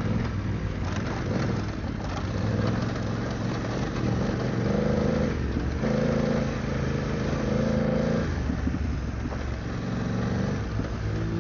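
BMW F900GS parallel-twin motorcycle engine running at low revs on a dirt trail, its pitch holding steady for a second or two at a time and shifting as the throttle changes, over wind and tyre noise.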